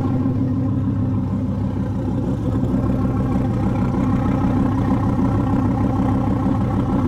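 Dodge Viper's 8.4-litre V10 idling steadily.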